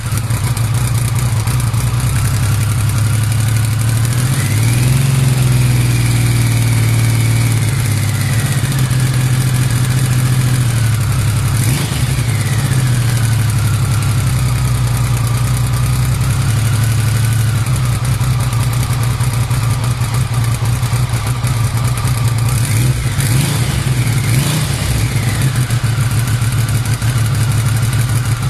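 VW T3 Sprint van's engine running through an aftermarket exhaust just after starting. The idle rises about four seconds in and slowly settles. There is a quick throttle blip around twelve seconds in and two more blips near the end.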